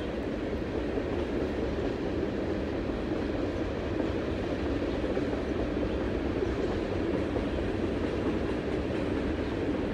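CN train rolling past, a steady rumble of cars on the rails.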